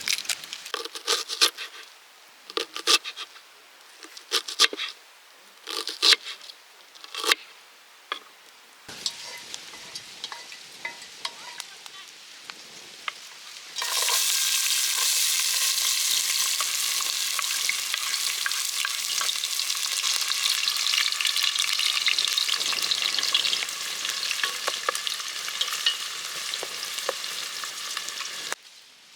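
A few seconds of sharp, irregular clicks and knocks of cooking utensils. About fourteen seconds in, food goes into hot oil in a pan and sizzles loudly and steadily, frying, until the sound stops abruptly near the end.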